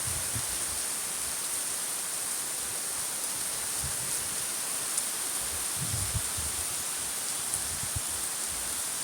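Steady hiss of monsoon rain falling, with a few soft low thumps scattered through it.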